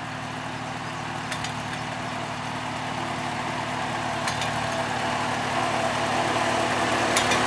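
A vehicle engine running at a steady pitch, growing gradually louder.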